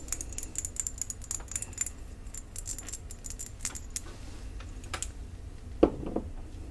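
Fingernails tapping rapidly on the indented top of a cologne bottle, a quick run of small clicks that then thins out to scattered taps, with one louder knock near the end.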